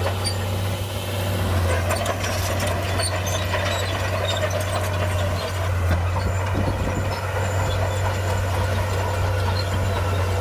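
Shantui crawler bulldozer's diesel engine running with a steady low drone, with scattered light clicks and clanks over it.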